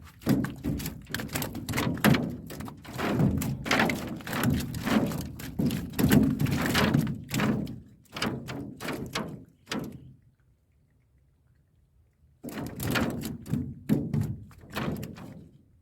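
A rapid, irregular run of dull knocks and thuds in a small boat, as the fish trap and fish are handled against the hull, breaking off about ten seconds in for a couple of seconds of near silence before the knocking resumes.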